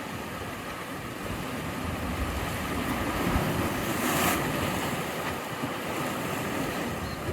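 Sea waves breaking. One wave swells and crashes loudly about four seconds in, then the surf washes back down, with some wind on the microphone.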